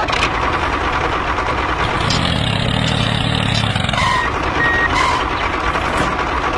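Steady vehicle-like motor noise, as of a running tractor, with a few short beeps a little past halfway.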